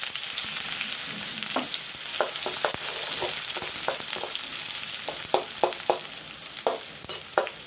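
Chopped onions, green chilies and cumin seeds sizzling in hot oil in a pan, stirred with a spatula that knocks against the pan many times.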